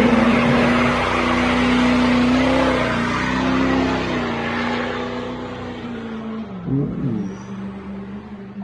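Truck engine and exhaust holding a steady droning note that slowly fades as the truck pulls away, with a couple of brief swoops in pitch about seven seconds in.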